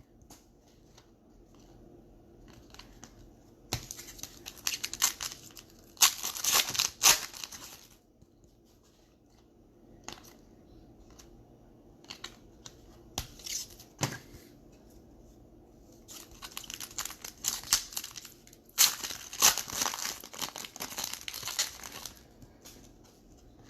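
Plastic trading-card pack wrappers being torn open and crinkled in several bursts, with quieter handling of the cards between them.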